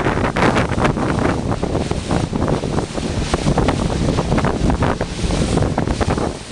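Heavy wind buffeting the microphone in uneven gusts, over water rushing and splashing around a boat under way.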